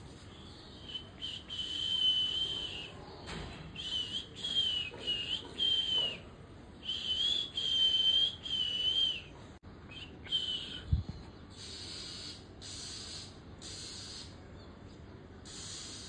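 Oriental magpie-robins calling: a string of about eight long, clear whistled notes, each held near one pitch. A single thump comes about eleven seconds in, followed by a run of short hissing notes, roughly one a second.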